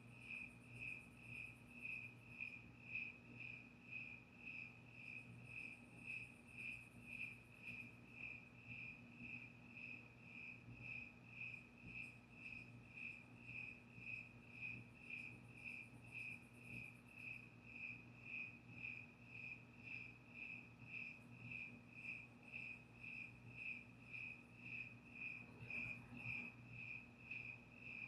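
Crickets chirping in an even, steady rhythm, about two to three chirps a second. A fainter, higher-pitched insect trill comes and goes in the background.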